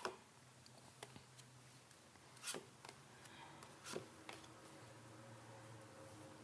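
Tarot cards being handled and laid down: a few soft taps and slides of card on card, five or so in all, the sharpest about two and a half seconds in, over a faint low hum.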